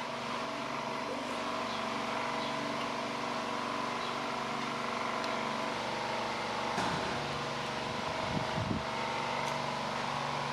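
A steady mechanical hum of several even tones with background hiss, with a few faint clicks and brief handling noises near the middle.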